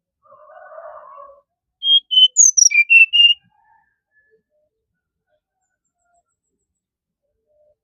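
Brown-chested jungle flycatcher singing one short phrase of about seven clear whistled notes, a couple of them sliding downward, starting about two seconds in and lasting about a second and a half. A faint low noise comes just before the song.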